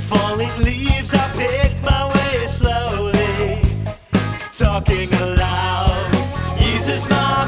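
Rock band playing a song, with a steady drum beat, bass, guitar and a sung melody. The band drops out briefly about four seconds in, then comes back in.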